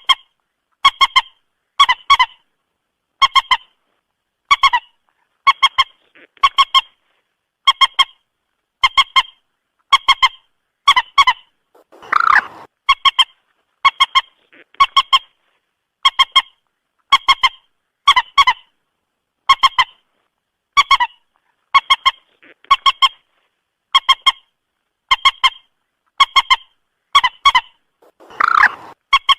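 Recorded moorhen calls played as a trapping lure: short calls of two or three quick notes, repeated about every second and a half with clean silence between. A longer, rougher call comes twice, about twelve seconds in and near the end.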